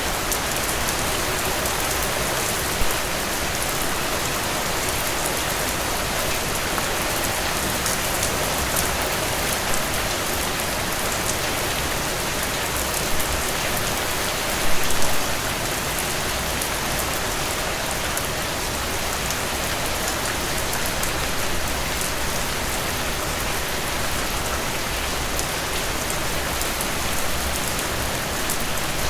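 Heavy rain falling steadily in a dense downpour, with a few brief louder splashes or drop hits, around 3 seconds in and about halfway through.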